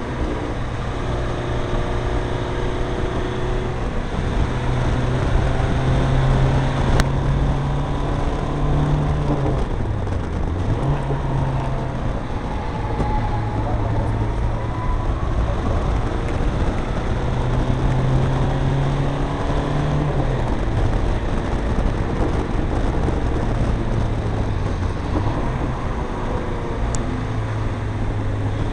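Renault Kangoo's 64 PS diesel engine pulling steadily at speed, with road and wind noise; the engine note dips and recovers about ten seconds in, again around twenty seconds and once more near twenty-five seconds.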